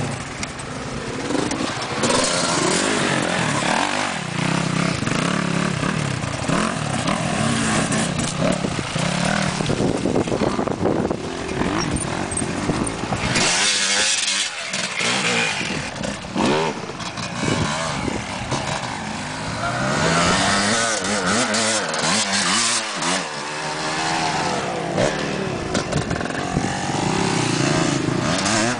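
Motocross bike engine running and revving off-road, its pitch rising and falling repeatedly as the rider opens and closes the throttle and shifts.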